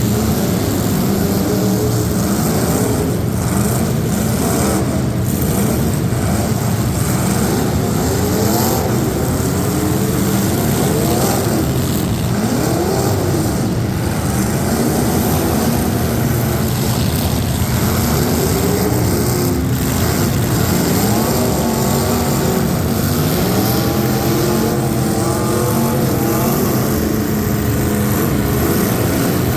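Racing trucks' engines running and revving, several at once, their pitch sweeping up and down over and over as they accelerate and back off.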